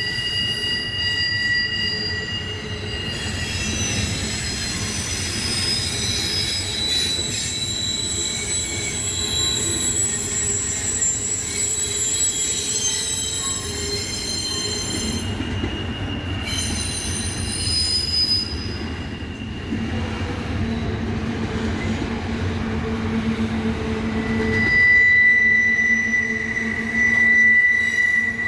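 Steel train wheels squealing against the rails as a train rolls along, several shrill tones shifting over a low rumble of running gear. The squeal grows louder and sharper about 25 seconds in.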